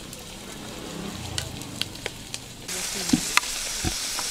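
Meat slices frying in hot oil in a pot, a steady sizzle with scattered sharp pops and clicks; the sizzle gets noticeably louder about two and a half seconds in.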